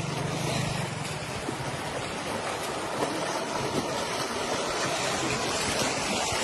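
Floodwater rushing steadily, a constant hiss of flowing water.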